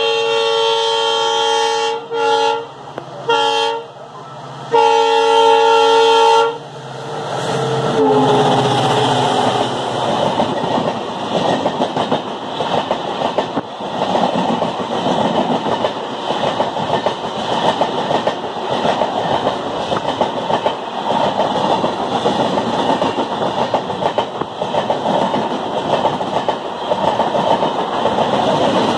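Train horn sounding a long blast, two short toots and another long blast. Then the loud steady rumble and rapid wheel clatter of a passenger train's coaches running past close by at speed.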